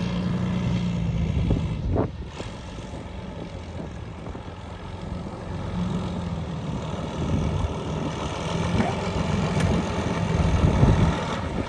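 Classic car engine running with a low rumble; it drops away abruptly about two seconds in and builds up again near the end.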